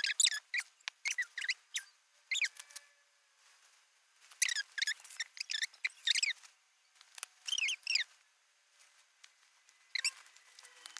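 A series of short, high-pitched squeaky chirps that glide up and down, coming in small clusters with brief silences between.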